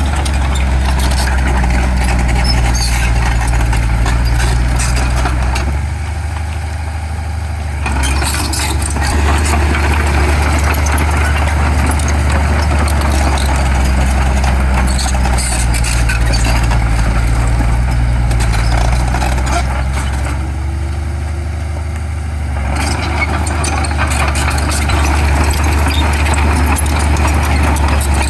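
Heavy diesel engine of earthmoving machinery running with a deep steady hum, easing off twice and picking up again.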